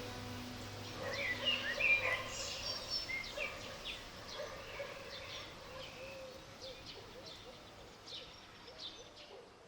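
Wild birds chirping and calling in a natural ambience, busiest in the first few seconds and thinning out after, with a lower, warbling repeated call in the second half. The last held tones of soft background music fade out just after the start.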